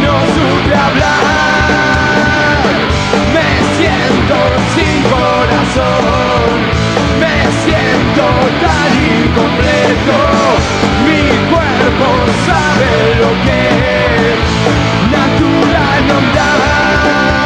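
Punk rock band playing live, loud and steady, in an instrumental stretch of the song with no singing: electric guitars, bass and drums with cymbals, and a held melodic line over them.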